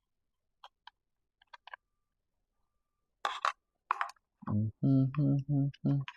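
Small clicks and two sharp scrapes of handling hardware, then a cordless drill-driver run in five short trigger bursts, driving a screw into the miter saw's dust chute.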